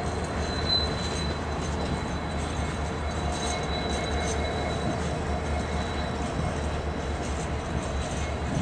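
Triple Crown RoadRailer freight train rolling past at steady speed: a continuous rumble of wheels on track, with a thin high-pitched wheel squeal running through it.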